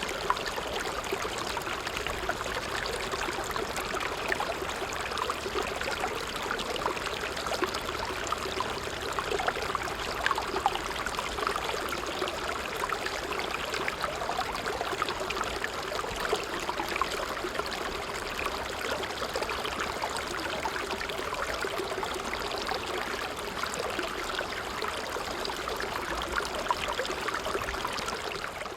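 Creek water running and babbling steadily.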